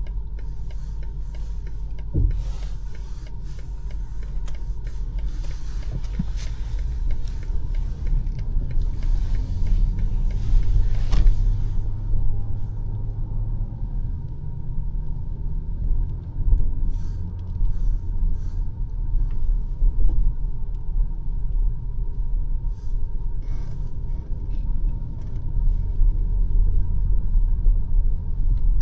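BMW X5 M50i's twin-turbo V8 and tyres giving a steady low rumble while driving on snowy city roads. A hiss of road noise sits over the rumble for roughly the first twelve seconds, then drops away.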